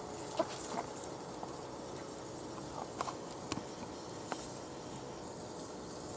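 Wood fire burning in a small fire pit: a steady hiss with scattered sharp crackles and pops.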